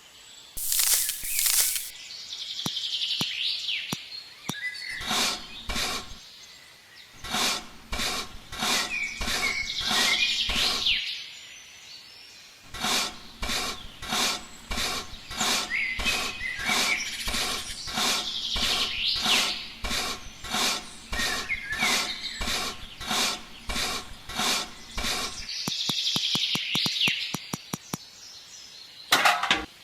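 Rhythmic scraping or rubbing strokes, about two a second, in bouts with short pauses, with birds chirping in the background.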